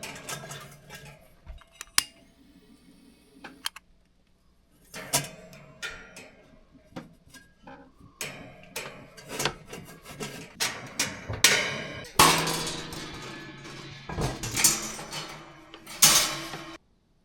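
Irregular clinks and knocks of cookware and utensils being handled during camp cooking, over background music; it cuts off abruptly near the end.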